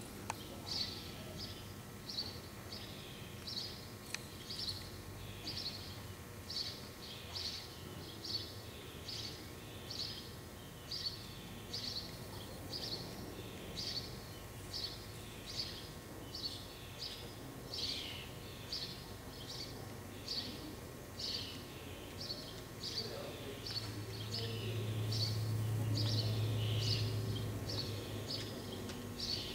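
A bird chirping over and over, about two short chirps a second. A low hum swells for a few seconds near the end.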